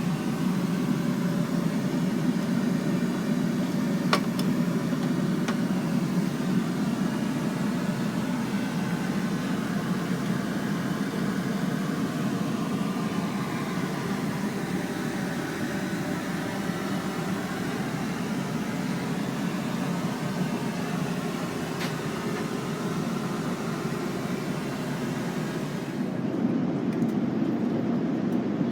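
Steady low rumble of cabin noise inside an Airbus A330-300 airliner in flight, with a couple of light clicks.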